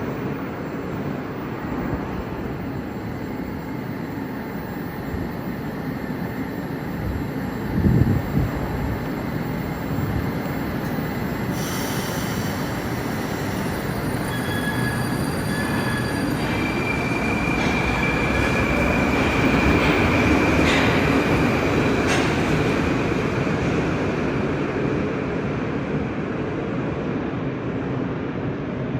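Moscow metro train running between stations: a steady rumble of wheels and running gear. There is a brief thump about eight seconds in. High-pitched wheel squeal comes in about twelve seconds in and lasts roughly ten seconds.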